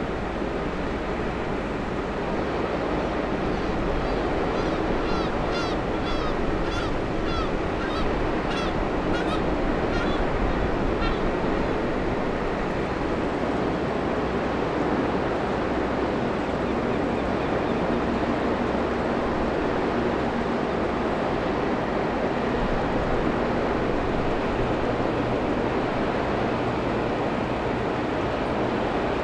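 A steady low rumble and wash of water and engine noise. Over it, from about five to eleven seconds in, a bird gives a quick series of about a dozen short honking calls, about two a second.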